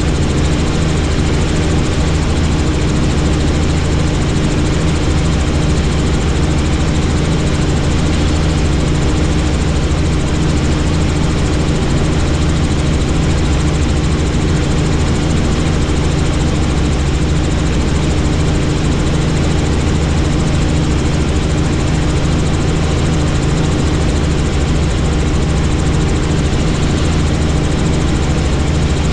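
Helicopter in flight: a steady, loud rotor and turbine drone with several constant low tones under a dense hiss, never changing.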